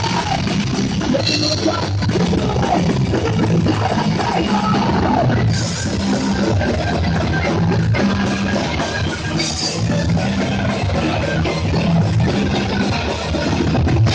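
Live punk hardcore band playing loud and fast, with distorted electric guitars and a pounding drum kit.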